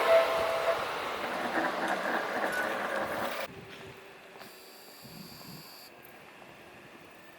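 Seibu Ikebukuro Line electric train passing a level crossing, its running noise dying away over the first three seconds or so, then cut off abruptly, leaving faint background noise.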